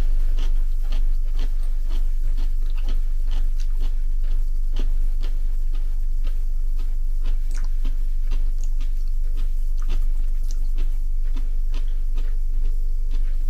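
Scattered small clicks and crunches of someone chewing food, over a steady low electrical hum.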